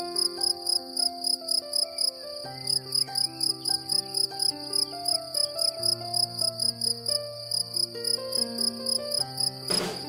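Cicadas singing in a pulsing rhythm, about four pulses a second, over soft background music of slow held notes. A short crackle near the end.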